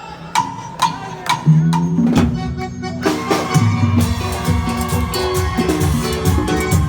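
Live band playing Latin dance music: a few sharp drum hits in the first second and a half, then bass and the full band come in about two seconds in and play on with a steady beat.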